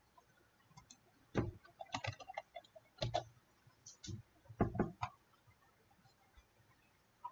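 Computer mouse clicks and keyboard keystrokes: a few sharp clicks and taps in irregular clusters, some with a dull thud on the desk.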